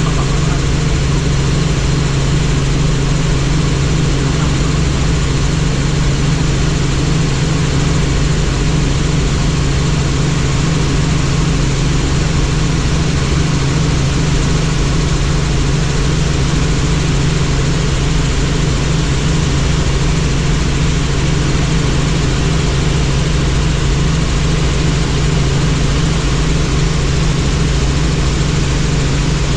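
Helicopter in flight: steady rotor and engine noise with a strong low hum.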